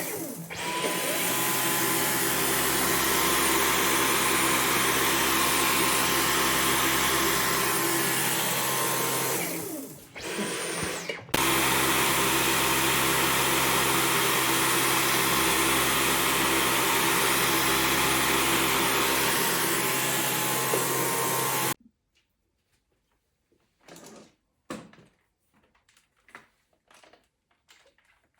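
Dyson V15 Detect cordless stick vacuum running with a steady motor whine. It winds down about nine seconds in, gives a short burst, restarts and runs again, then cuts off abruptly. A few faint knocks and clicks follow.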